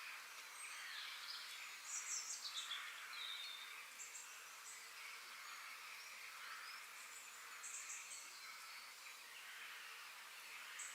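Forest ambience: birds chirping in short bursts of rapid high chirps, loudest about two seconds in and again near the middle and end, over a steady faint hiss.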